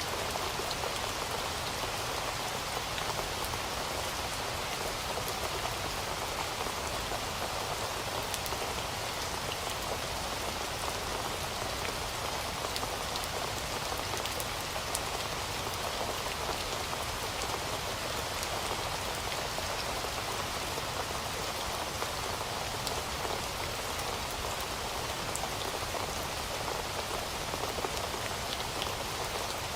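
Heavy rain falling steadily, an even hiss of drops with fine scattered patters on a surface.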